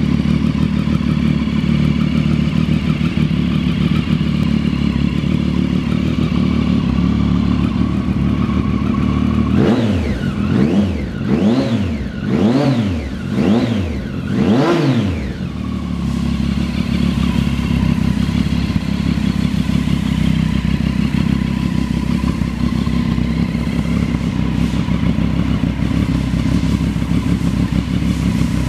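2016 Triumph Street Triple R's 675 cc three-cylinder engine idling steadily, then revved about five times in quick succession, each rev rising and falling back, before settling to idle again.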